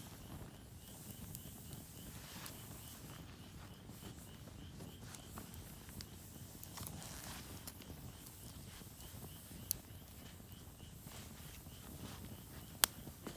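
Night insects chirping in a fast, even pulse, with two sharp snaps later on, the second one the loudest sound.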